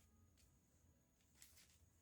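Near silence, with faint handling of pattern paper and a soft paper rustle about a second and a half in.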